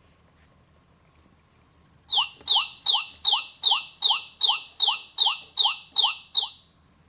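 An animal call repeated about a dozen times in quick, even succession, roughly three a second, high-pitched. It starts about two seconds in and stops shortly before the end.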